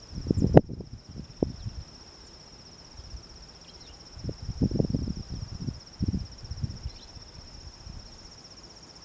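Insects trill steadily on one high note throughout. Two clusters of irregular low thumps and rustles come over it, one at the start and one from about four to seven seconds in, and these are the loudest sounds.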